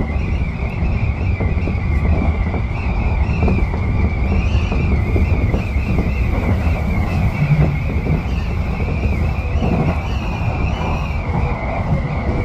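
Tobu 10030-series electric train running, heard from inside the car: a steady rumble of wheels on rails with a wavering high-pitched whine above it.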